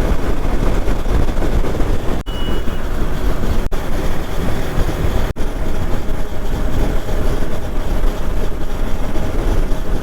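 Steady wind rush on the microphone over a Hero Xpulse motorcycle's single-cylinder engine running at cruising speed. The sound drops out for an instant three times.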